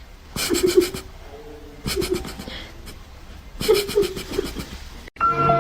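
Three short, pulsing vocal bursts about a second apart, laughter-like in rhythm. Music starts abruptly near the end.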